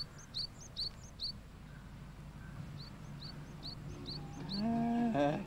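A bird chirping repeatedly, short high calls about two a second in two runs with a pause of about a second and a half between them. Near the end a man's voice comes in with a drawn-out held note that wavers as it ends.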